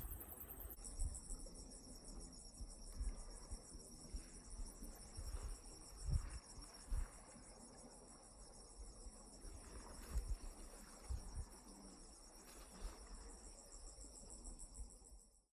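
Insects chirring in a steady high-pitched chorus, with scattered low thumps underneath; the sound cuts off abruptly just before the end.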